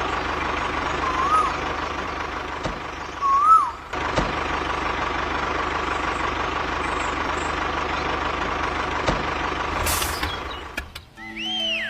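Small motor of a DIY mini tractor running steadily with a thin high whine. The sound cuts and resumes about four seconds in and fades out shortly before the end.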